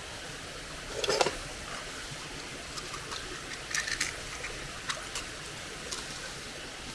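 Small stream babbling steadily, with a few short clicks and knocks over it; the loudest is a brief clatter about a second in.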